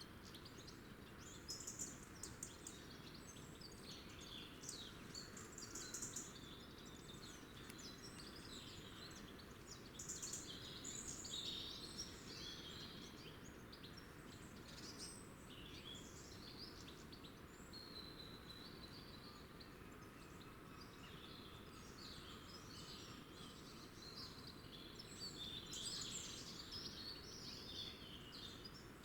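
Small wild birds chirping and twittering in several flurries, over a faint steady low background rumble.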